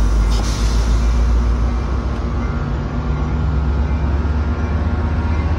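NJ Transit passenger coaches rolling past at close range: a steady deep rumble of wheels on the rails, with a brief hiss just after the start.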